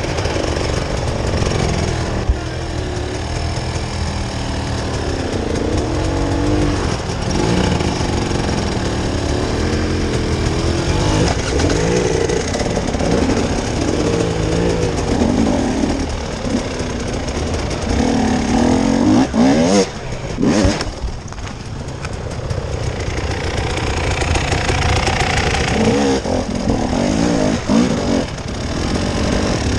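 Vehicle engine running continuously while driving off-road, its pitch rising and falling as the throttle and load change, with a brief drop about two-thirds of the way through.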